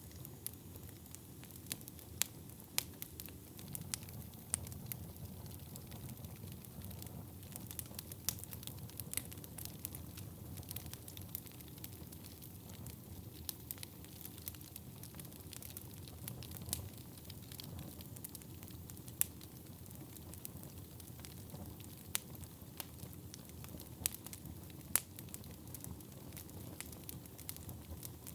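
Wood fire burning in a fireplace: a steady low hiss and rumble of flames, with frequent sharp crackles and pops, a few of them louder.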